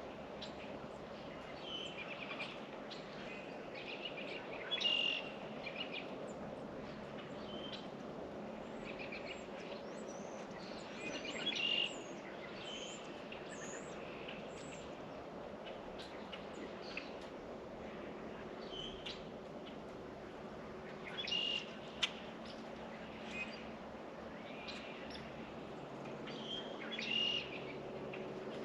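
Small songbirds chirping and calling over and over, with short louder flurries of calls every several seconds, over a steady background hum.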